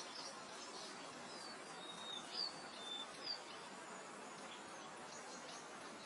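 Small birds giving short high chirps and brief whistled notes, loudest in a cluster around the middle, over a steady soft hiss of wind through grass.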